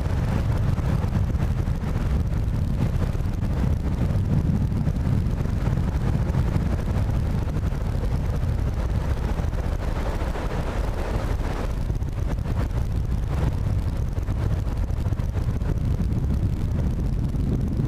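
Storm wind buffeting the microphone: a steady low rumble with a fainter rushing haze above it.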